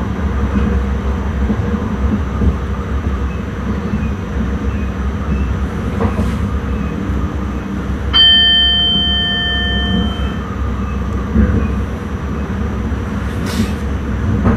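Intercity train running, heard from the driver's cab as a steady low rumble. About eight seconds in, a ringing tone sounds in the cab for about two seconds, several steady pitches at once, then fades.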